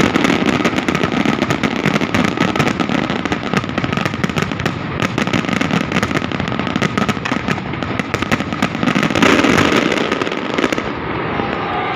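Fireworks going off in a dense barrage of rapid pops and crackles over a rumble, dying away about eleven seconds in.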